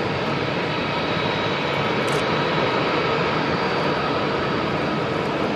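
Jet engines of a Boeing 747-400 airliner on its landing approach: a steady rushing jet noise with a faint high whine.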